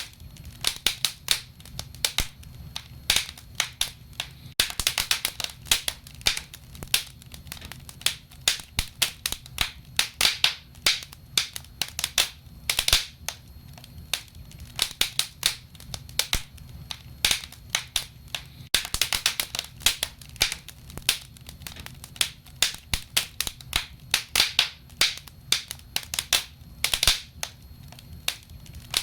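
Wood fire crackling: frequent sharp, irregular pops and snaps from burning logs over a low steady rumble.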